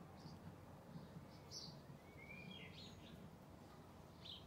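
Faint bird chirps: a handful of short, high chirps and one longer sliding note about two seconds in, over a low steady background hum.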